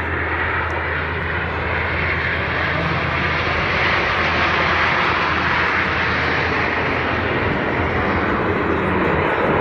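Jet aircraft flying past, a loud rushing roar that builds to its peak midway and then drops lower in pitch as it moves away.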